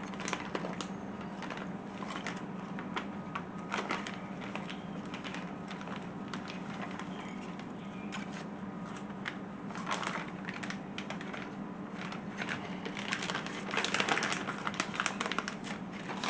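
Irregular light clicks and small rattles from hardware and intake parts being handled, over a steady low hum, with busier clusters of clicking about ten seconds in and again near the end.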